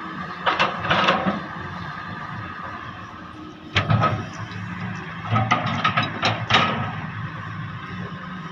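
Heavy excavator working: the engine runs steadily underneath while clusters of sharp knocks and clanks come about a second in, around four seconds in, and again for a couple of seconds near the middle to end.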